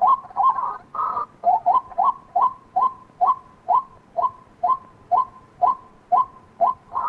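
White-breasted waterhen calling: a burst of dense croaking chatter, then a long, even series of short, downward-slurred 'kwak' notes, about two a second. The dense chatter starts again at the very end.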